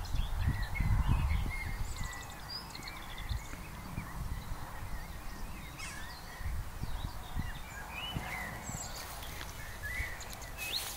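Small birds chirping and singing in short, scattered phrases over a low rumbling background noise that is strongest in the first couple of seconds.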